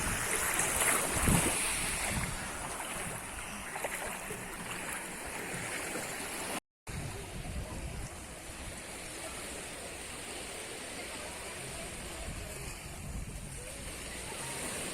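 Sea surf washing onto a beach with wind, a steady rush of waves, a little louder in the first two seconds. The sound cuts out for a moment about seven seconds in.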